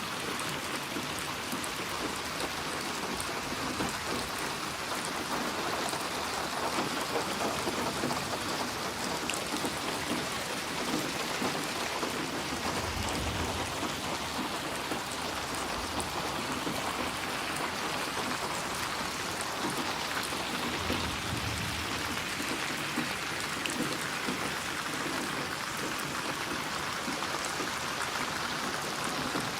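Steady rain falling, an even dense hiss of drops on surfaces, with two brief low rumbles around the middle.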